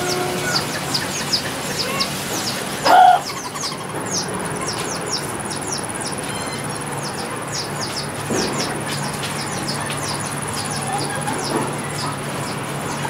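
Small birds chirping in a dense, continuous run of short, high, downward-sliding chirps, about three a second, over a thin steady high-pitched whine. One short, louder sound breaks in about three seconds in.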